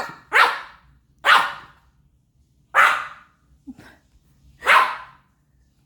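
Pomeranian puppy barking four times, short sharp barks spaced about a second or more apart.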